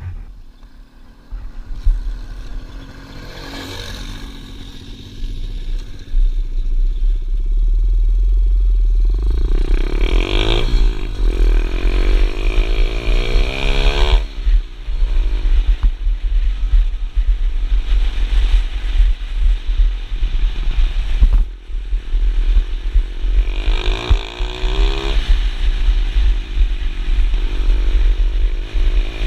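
Pit bike engine being ridden, revving up and down repeatedly over a heavy low rumble. It is quieter for the first several seconds, then gets loud.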